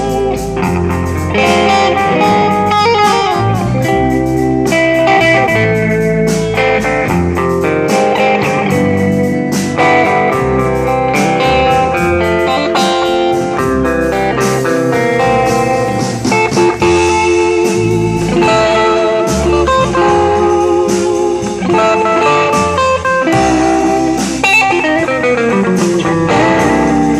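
Live band playing a slow instrumental ballad: electric lead guitar carrying the melody over bass and drums.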